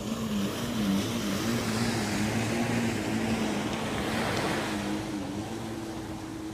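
A motor engine running steadily, its pitch wavering up and down and then settling a little higher near the end, over the wash of breaking waves that swells midway.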